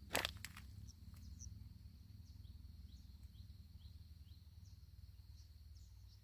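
Quiet outdoor ambience: insects droning on one steady high note, with short falling bird chirps repeating through the middle. A sharp knock or snap about a fifth of a second in is the loudest sound, followed by a couple of fainter ticks.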